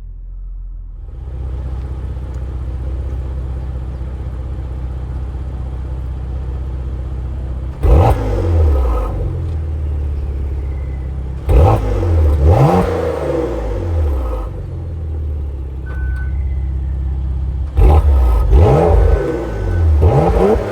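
2018 Porsche Macan Turbo's twin-turbo V6 idling steadily and revved in short throttle blips that climb sharply and fall back to idle: once about eight seconds in, twice around twelve seconds, and several in quick succession near the end.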